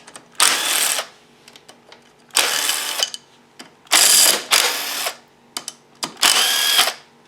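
Ratchet wrench loosening the bolts on a dirt bike engine's side cover: four bursts of rapid ratchet clicking, with small metal clinks between them.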